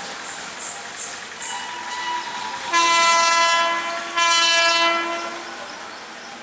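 Electric locomotive air horn sounding: a short, quieter note, then two loud long blasts about half a second apart, over the rhythmic noise of a passing train.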